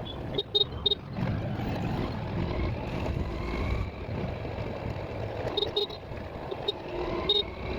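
Road traffic heard from a moving vehicle: a steady engine-and-road rumble, with short horn beeps, often in quick pairs, several times.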